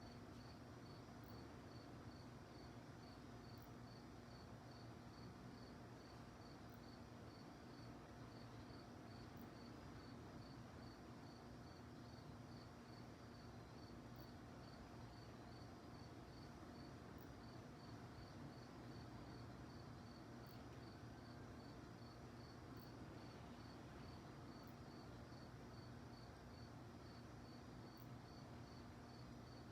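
Crickets chirping faintly at night: a steady run of short, high, evenly spaced chirps, a couple a second, over a low steady hum.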